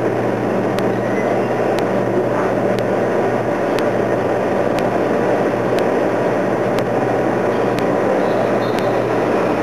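Airship's propeller engines droning steadily overhead, a low hum under a constant rushing noise, with a faint tick about once a second.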